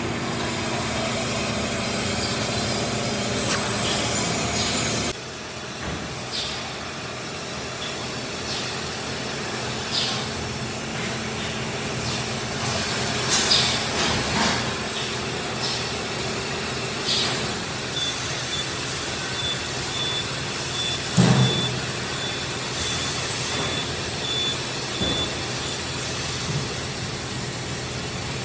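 Tyre-factory machinery running, with scattered clanks and knocks and one heavier thump. A steady hum cuts off suddenly about five seconds in, and a rapid high beeping repeats for several seconds past the middle.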